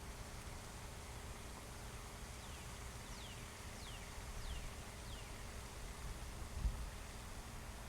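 A small bird calling faintly: a series of about five quick, falling whistled notes, a little over half a second apart, over a steady low outdoor rumble.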